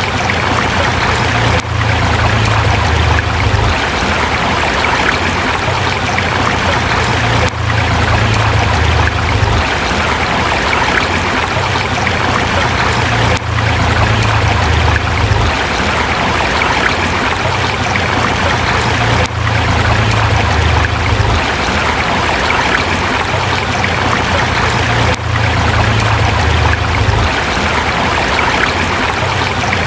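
River water rushing over rocks: a steady, loud rush with a low rumble underneath, dipping slightly about every six seconds.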